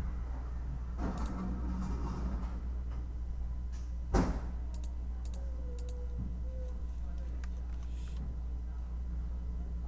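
Sparse computer keyboard key clicks over a steady low background hum, with one loud thump about four seconds in.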